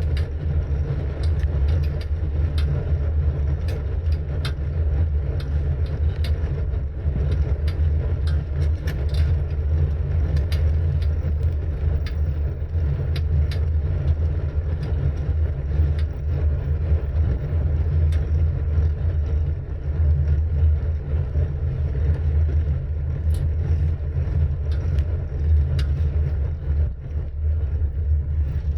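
Wind buffeting the microphone of a camera carried on a moving bicycle, heard as a steady low rumble, with road vibration and scattered small clicks and rattles from the bike and mount.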